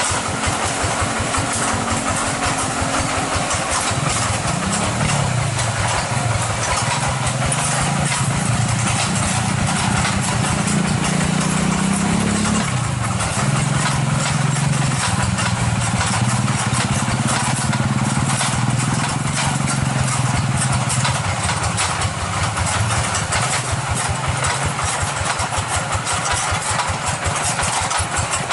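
Two-wheel hand tractor's single-cylinder diesel engine running with a fast, even chugging, its pitch wavering up and down between about four and twenty-one seconds in.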